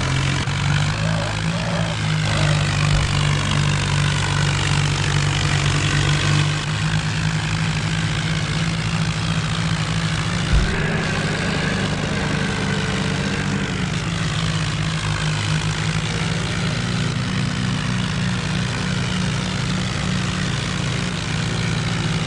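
Tractor engine running steadily, its pitch rising briefly and falling back about halfway through. A single short knock stands out about ten seconds in.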